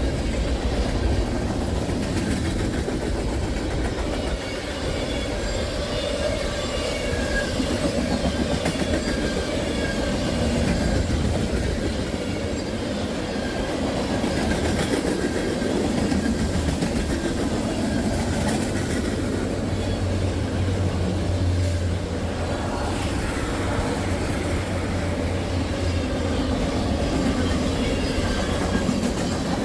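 A freight train's cars rolling steadily past: a continuous low rumble with wheels clattering over the rail joints and a faint high wheel squeal.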